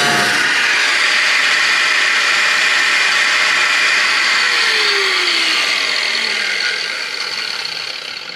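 Angle grinder with a cut-off wheel cutting through the steel of a car body's hinge pillar, a steady loud grinding hiss. Near the end the cut eases off and the tool winds down, its pitch falling and the sound fading.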